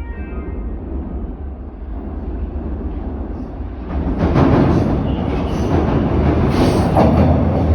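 TTC Line 4 Sheppard subway train (Toronto Rocket stock) pulling into the station: a low rumble of wheels and motors that grows much louder about four seconds in as the train enters the platform.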